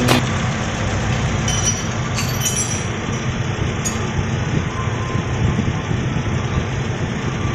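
Toyota Kijang Innova's four-cylinder VVT-i petrol engine idling steadily, misfiring and running rough ('pincang'), the fault that makes the engine shake.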